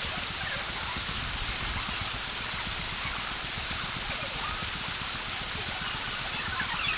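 Steady rush of running water from the mountain stream and falls.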